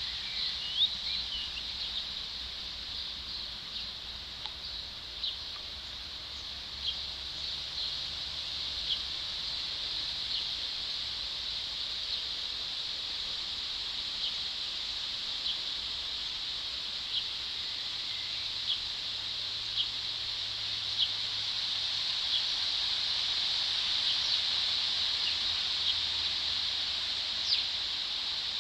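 A bird's short, sharp call note repeated every second or two over a steady high-pitched hiss.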